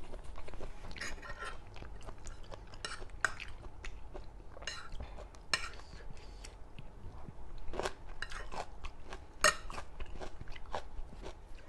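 Eating sounds: crunching and chewing of food, with many short, sharp crunches and clicks scattered irregularly throughout.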